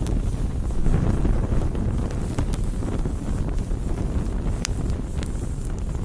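Campfire burning: a steady low rumble of the flames with a few sharp wood crackles.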